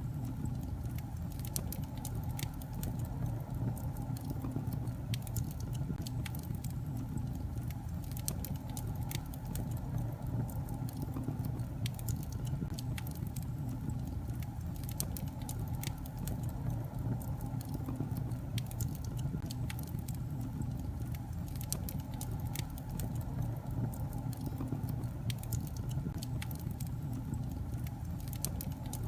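Wood fire burning in a fireplace: a steady low rumble of flames with many small sharp crackles and pops from the logs.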